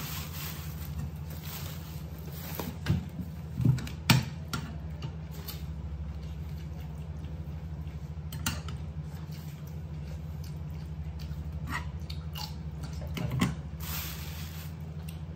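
A man chewing raw cucumber with his mouth, in scattered wet crunches and clicks, over a steady low hum.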